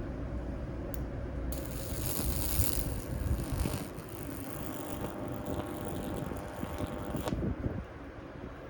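Microwave oven transformer switched on, driving a high-voltage electrical arc that crackles and buzzes with a hum for about six seconds, then cuts off suddenly. It seems to be arcing inside the transformer.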